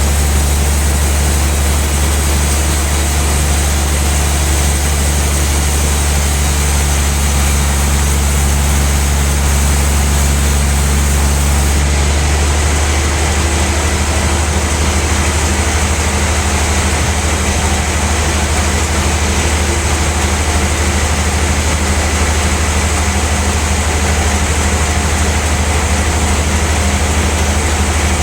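Large sawmill band saw running with a loud, steady machine drone and a strong low hum; about twelve seconds in the sound changes, losing its highest hiss.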